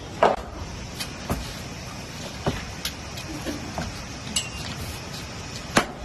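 Steady hiss of rain in a forest, with scattered sharp knocks and snaps and a brief high chirp about four seconds in.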